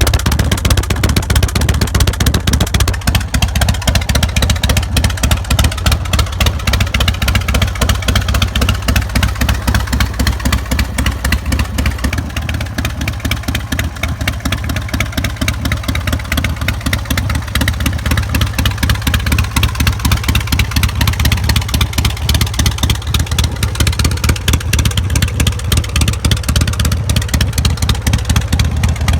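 S&S 117 cubic-inch V-twin with a 600 cam in a Big Dog K9 chopper, running steadily at idle just after a cold start with a deep, fast, even pulse.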